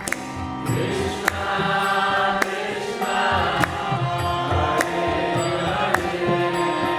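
Kirtan music: steady held tones over a running drum beat, with a bright metallic clash about once a second.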